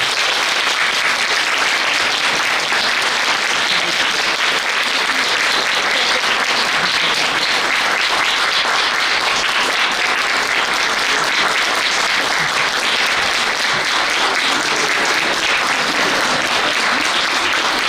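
Lecture audience applauding steadily at the end of a talk, many hands clapping in a dense, even patter.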